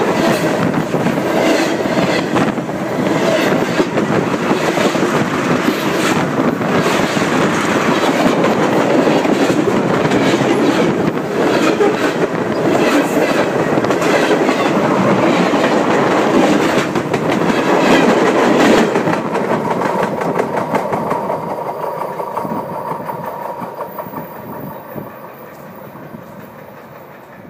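Train cars rolling directly over a phone lying between the rails: loud wheel rumble and clattering over the track, with many sharp clacks. About two-thirds of the way through it begins to fade as the train passes on, and it is much quieter by the end.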